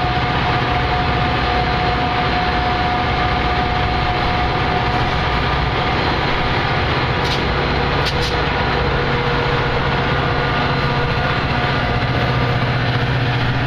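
Metra commuter train's diesel locomotive running steadily while standing, a loud, constant engine drone with a steady hum. Two brief clicks about seven and eight seconds in.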